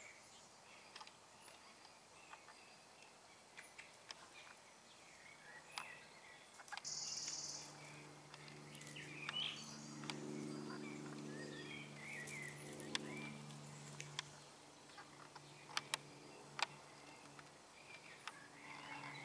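Faint outdoor ambience with scattered short bird chirps and calls. A low steady drone, like a distant engine, joins about five seconds in and fades out after about fourteen seconds.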